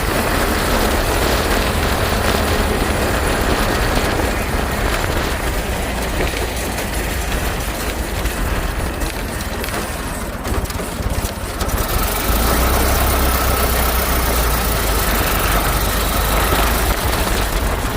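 1928 Ford Model A's four-cylinder engine running under way, with a steady low rumble. The sound eases off about nine seconds in and picks up again about twelve seconds in, when a thin steady whine joins it for several seconds.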